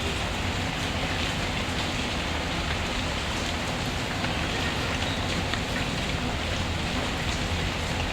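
Steady heavy rain falling, an even dense hiss with a low rumble underneath and scattered faint clicks.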